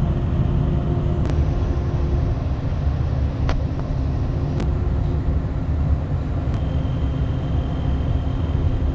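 Steady low rumble of a Dubai Metro train in motion, with faint whining tones above it and a few light clicks.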